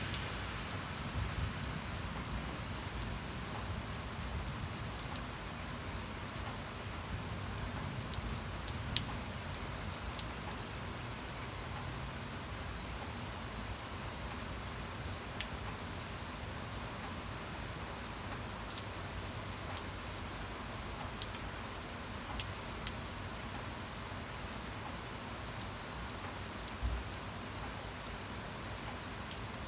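Steady rain falling: an even hiss with scattered sharper ticks of individual drops, and a low rumble that fades over the first few seconds.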